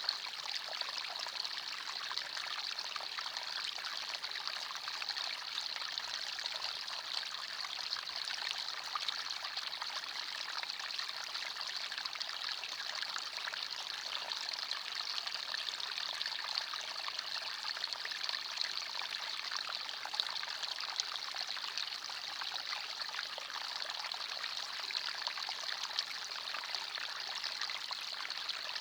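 Forest stream: water running and trickling over stones in a steady babble, with no change throughout.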